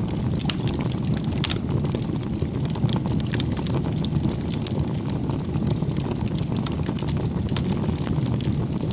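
Wood fire crackling: a steady low rumble of flames with frequent irregular sharp pops.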